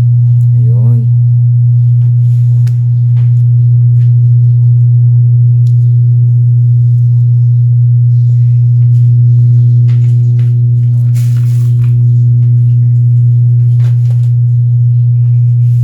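Mass MS2195BT multimedia speaker system giving out a loud, steady low hum and nothing else, with a brief warbling tone about a second in and a few faint clicks. The hum does not respond to the volume control and no input audio comes through, a fault that the repairer puts down to a failed amplifier IC or transistor.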